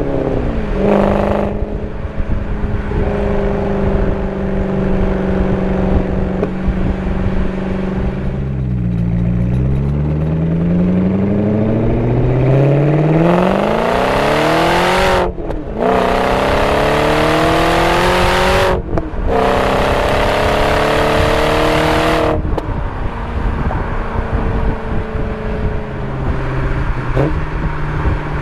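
BMW 545i's 4.4-litre V8 running through a muffler-deleted, straight-piped exhaust while driving. After a steady cruise, about ten seconds in the revs rise in a long pull, broken twice by quick upshifts where the pitch drops and climbs again, then the revs fall as the throttle is lifted and the engine settles back to a steady cruise.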